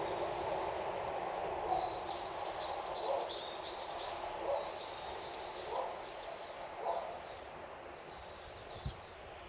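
Garden birds chirping and calling in quick, repeated high notes, busiest in the middle, over a low background rumble that slowly fades away.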